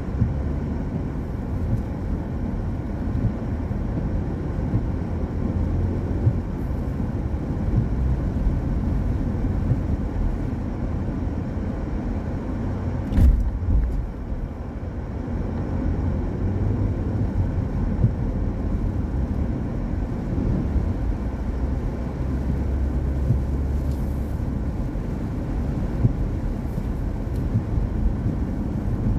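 Car driving on a rain-wet road: a steady low rumble of tyres and engine, with one sharp thump about halfway through.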